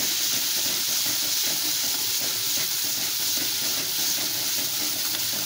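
Tomato and onion masala with turmeric sizzling steadily in hot oil in a kadai while being stirred with a spoon.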